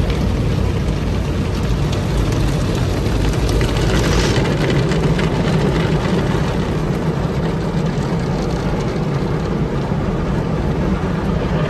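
Automatic tunnel car wash machinery heard from inside the car: a loud, steady roar with a deep rumble underneath, unbroken throughout.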